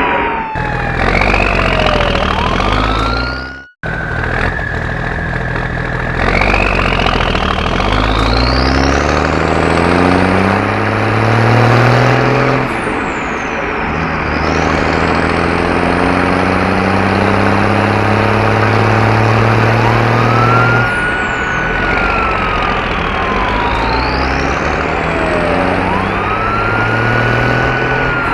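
Cartoon siren sound effect wailing up and down over a vehicle engine that revs up, its pitch climbing for several seconds and then dropping, three times over. The sound cuts out abruptly for an instant a little under four seconds in.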